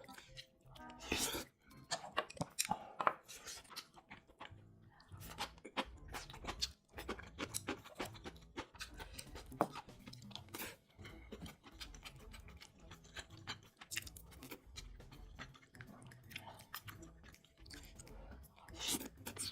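Close-miked eating sounds: one person chewing and crunching food, with many quick, irregular wet clicks and crunchy bites.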